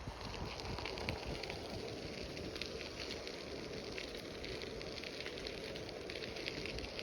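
Bicycle tyres rolling over a crushed-stone trail surface: a steady crunching rush with many small crackles of grit.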